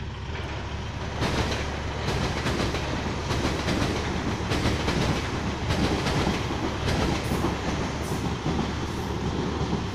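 South West Trains passenger train running across a level crossing: a steady rush of wheels on rail that swells about a second in, with repeated clicking as the wheels pass over the rail joints and crossing.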